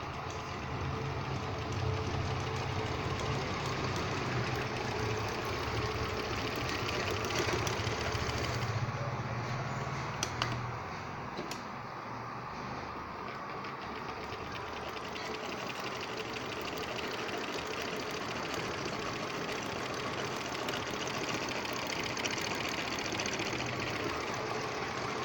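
Stitching machine running with a fast, even mechanical rattle. A low hum underneath drops away about ten seconds in, just after a couple of sharp clicks.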